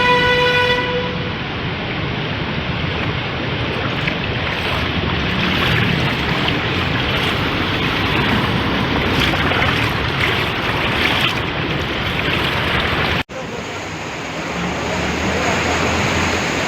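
Floodwater rushing in a steady, loud wash of noise. A vehicle horn sounds briefly at the very start, and the rushing carries on after an abrupt cut about 13 seconds in.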